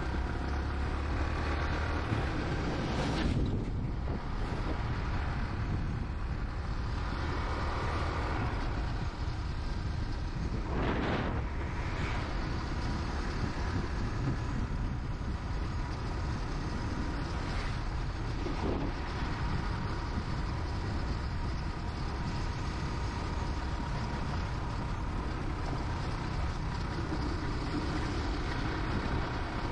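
Motorcycle being ridden: steady engine and wind noise, with a few brief louder swells along the way.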